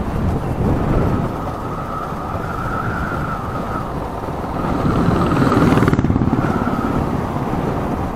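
Yamaha R15 V3's single-cylinder engine running under way, with steady road noise. The engine note grows louder and rises about five seconds in, then settles.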